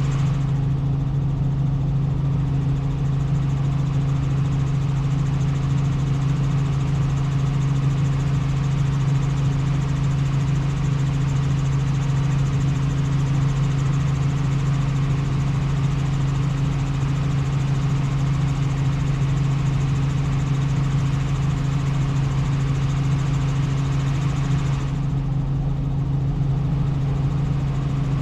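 Helicopter in flight: a steady, loud drone of engine and rotors with a constant low hum.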